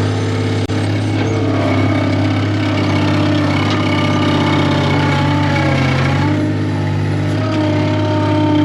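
Skid steer engine running steadily at idle, its note sagging slightly and recovering in the middle.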